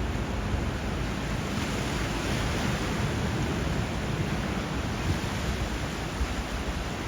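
Steady rushing of sea waves and flowing river water, swelling slightly about two seconds in.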